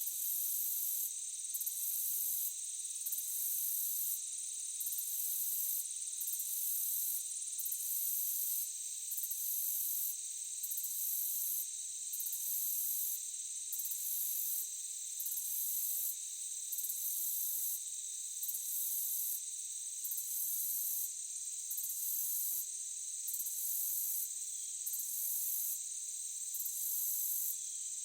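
Insect chorus: a steady high-pitched trilling, with a still higher shrill layer that pulses on and off about every second and a half.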